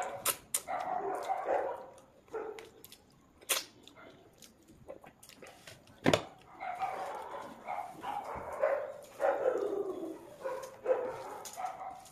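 Close-miked chewing of a mouthful of rice and fish curry, wet and smacking, with sharp mouth clicks; it comes in stretches of a second or two, drops off for a few seconds, then picks up again after a loud click near the middle.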